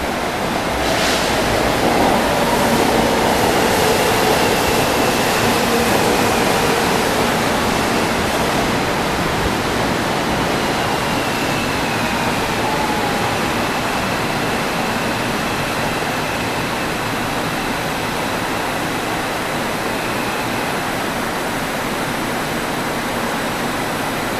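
Busan Subway Line 1 electric train running into an underground station: a steady rush of wheel and track noise, with faint high whines that slide slightly in pitch.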